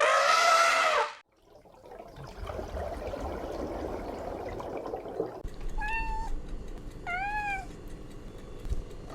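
A loud drawn-out animal call in the first second, then low rumbling noise, then a domestic cat meowing three times, each meow rising and falling.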